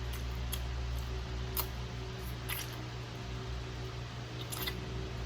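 Eating sounds of a person chewing chicken wings close to the microphone: a few short, wet mouth clicks and smacks, about four in all, over a steady low hum.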